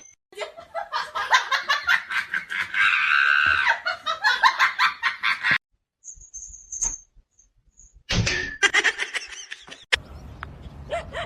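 Laughter in quick, repeated bursts for about five seconds, breaking off into a near-silent gap, with a shorter burst of similar sound about eight seconds in.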